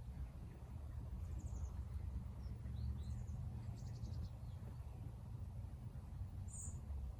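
Wild birds giving a few brief, high chirps and one short buzzy trill, the clearest chirp near the end, over a steady low background rumble.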